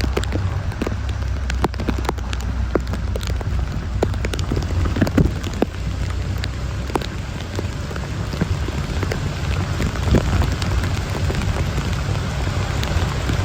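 Heavy rain falling steadily, with many sharp individual drop hits scattered through it and a steady low rumble underneath.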